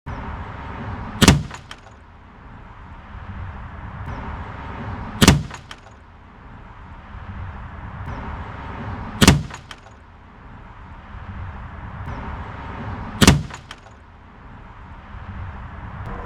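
Umarex AirSaber PCP air rifle firing an arrow into a car door, a sharp crack with a short metallic ringing tail, heard four times evenly spaced about four seconds apart over a steady background noise.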